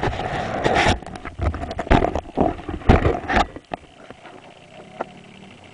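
Loud rustling and knocks close to a helmet-mounted camera's microphone, in rough bursts for about three and a half seconds, then dying down to a quiet background.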